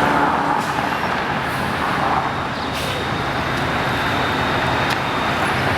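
Steady road traffic noise from city street vehicles, an even rumble and hiss with no single vehicle standing out.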